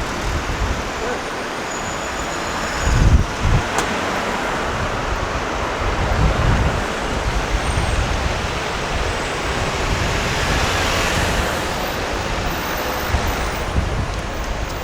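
Busy city street: a steady wash of road traffic, with low rumbles of vehicles swelling past and faint voices of passers-by.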